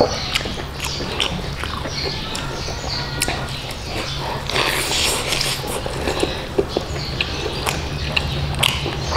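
Close-miked open-mouthed chewing and lip-smacking of chicken biryani and fried chicken, with many sharp wet mouth clicks throughout. A steady low hum runs underneath.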